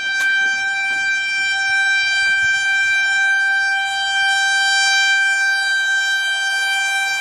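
Electric locomotive horn of an overtaking Rajdhani Express, blown in one long, unbroken blast at a steady pitch.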